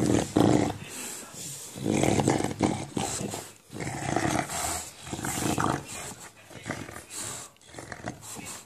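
English bulldog play-growling in a string of rough, gravelly bouts, each about half a second to a second long, coming every second or two.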